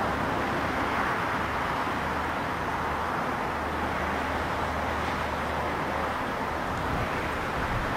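Airliner engines at takeoff power, a steady loud rushing roar from an aircraft rolling down the runway.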